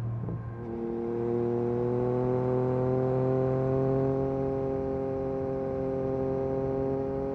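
Yamaha MT-09 SP's three-cylinder engine through an Akrapovic carbon exhaust, under way on the road: the note dips briefly about half a second in, then pulls steadily with its pitch rising slowly as the bike gathers speed.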